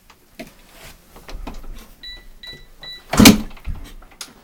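Three short electronic beeps, then about three seconds in a loud half-second burst of motorcycle engine noise as the bike, after trouble starting, is kicked over and fires.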